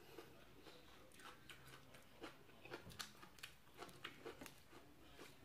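Faint, irregular crunching and chewing: a person eating a spicy pounded long-bean salad with raw shrimp and fresh vegetables.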